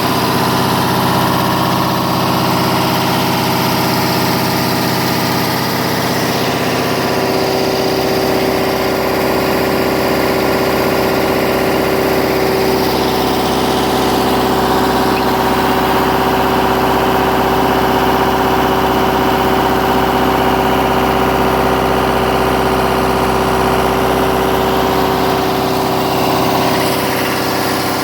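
MEP-003A 10 kW diesel generator set running steadily, its engine note even throughout, with a slight change in tone and loudness near the end.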